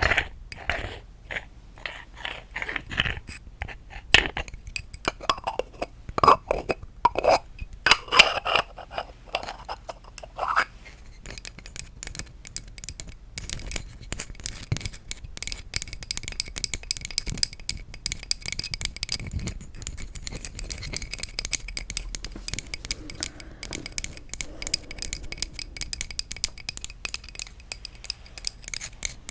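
Tapping on wooden objects: for the first ten seconds or so, separate hollow knocks that each ring with a short pitch, then a rapid, continuous run of light clicks.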